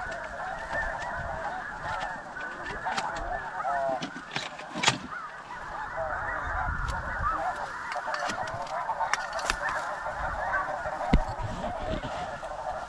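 A large flock of snow geese calling: a dense, continuous chorus of overlapping honks. Two brief sharp knocks cut through it, about five seconds in and again near the end.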